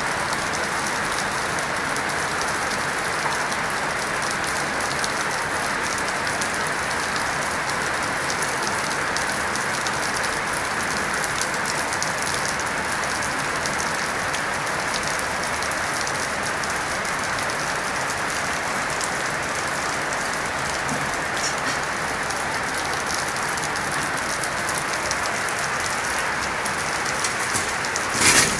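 Steady rain falling during a storm, a constant hiss of rain on surfaces dotted with individual drops ticking. A brief louder burst comes just before the end.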